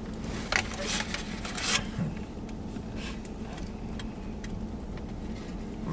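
Eating sounds from a takeout dessert: scattered clicks and short rustles of a fork and plastic container, bunched in the first two seconds, over a steady low hum.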